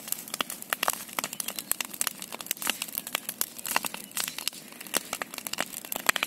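A large bonfire burning hard, with dense irregular crackles and pops.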